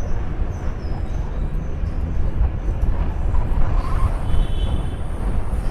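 Steady low rumble of wind buffeting the microphone and bicycle tyres rolling along a paved promenade.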